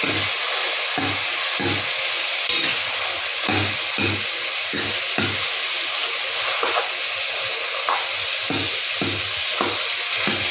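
Chicken and tomatoes frying in oil in an iron karahi: a steady sizzling hiss, with a steel ladle stirring and scraping against the pan. Short low knocks come about twice a second.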